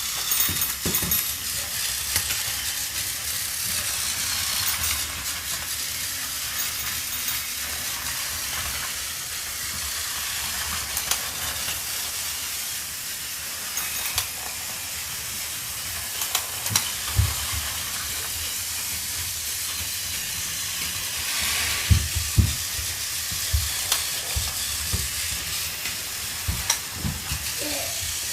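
Steady hiss of escaping steam from a steam locomotive, with a few low thuds in the second half.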